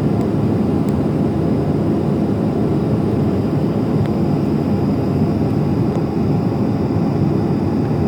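Steady low rumble of cabin noise inside a Nam Air Boeing 737-500 on the ground after landing, with a faint steady high whine above it.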